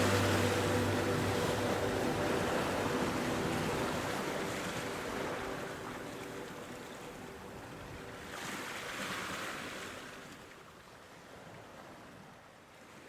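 Ocean surf washing ashore, an even rushing with one wave swelling up about eight seconds in, the whole slowly dying away. Music fades out under it in the first few seconds.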